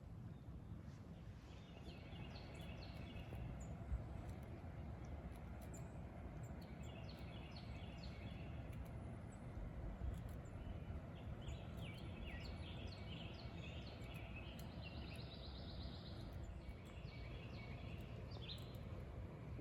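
Songbirds singing and calling in short repeated chirping phrases, with a buzzy trill about three-quarters of the way through, over a steady low background rumble.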